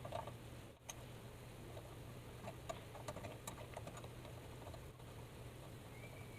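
Scattered light clicks and taps over a low steady hum.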